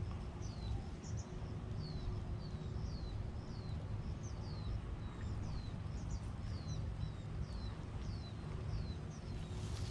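A bird calling over and over, a short high chirp that sweeps downward, about twice a second, over a steady low rumble.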